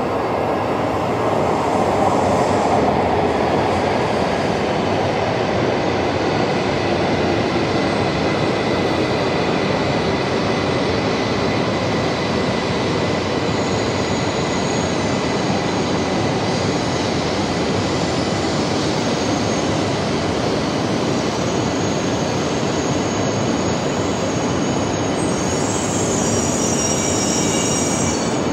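E2 series Shinkansen train pulling into an underground station platform, with a steady rush of running and wheel noise. A high brake squeal comes up near the end as the train slows to a stop.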